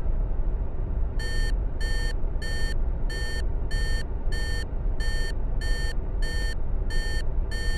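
Steady low rumble of an airplane engine sound effect with an electronic warning beep repeating about one and a half times a second, starting about a second in.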